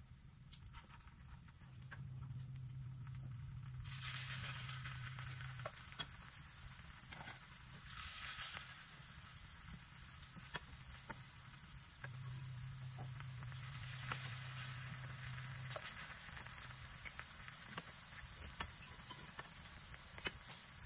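Potato patties shallow-frying in hot oil in a nonstick pan: a steady sizzle with small spits and crackles. The sizzle swells twice, about four and eight seconds in, as fresh batter goes into the oil.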